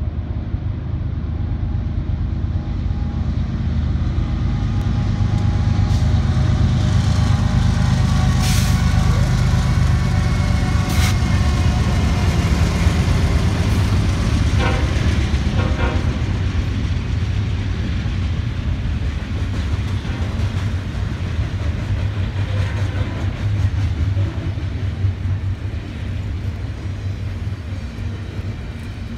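Diesel-electric freight locomotives approaching and passing, their engines running loudly, followed by the steady rolling noise of double-stacked container well cars going by, with a few sharp metallic clanks and squeals from the wheels and couplings.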